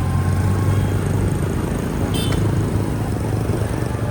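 Motorcycle engine running steadily under way, with wind and road noise over the helmet-mounted microphone. A brief high-pitched tone sounds about two seconds in.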